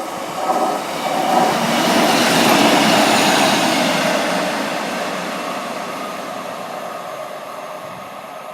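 British Rail Class 150 Sprinter diesel multiple unit going by. Its engine and wheel noise is loudest about three seconds in, then slowly fades away.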